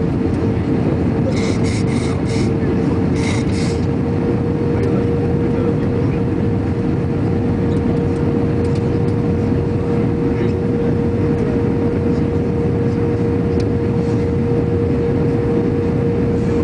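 Steady roar of an Airbus A321's engines and airflow heard in the passenger cabin during the descent, with a constant droning hum. A few short, high pips sound about a second in.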